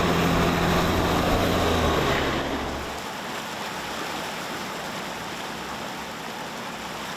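A motor vehicle's engine running with a steady low hum and noise, loudest for the first three seconds and then dropping to a quieter steady rush.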